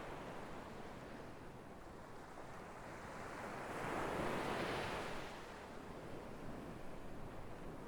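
Sea waves breaking and washing on the shore, one wave swelling up to its peak about four seconds in and ebbing away.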